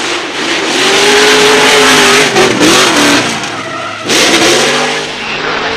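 Drift car engine held at high revs with tyre squeal from sliding, the pitch wavering as the throttle is worked. There is a short lift about four seconds in before it comes back on.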